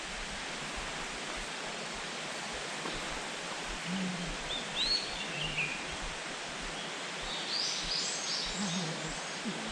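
Wild birds giving short, high calls, a couple of notes about four seconds in and a quick run of notes near the end, over a steady rushing hiss of outdoor background noise.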